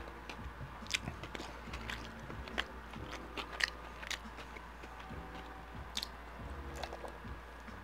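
Close-miked chewing of a mouthful of bacon cheeseburger, with wet mouth smacks and sharp clicks scattered throughout.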